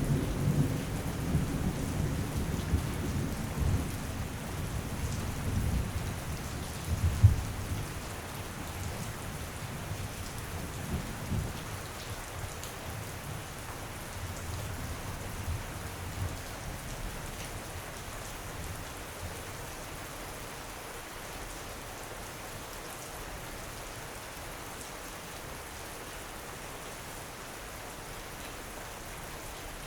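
Steady rain falling while thunder rumbles, with one sharp clap about seven seconds in. The thunder dies away about twelve seconds in, leaving only the even hiss of the rain.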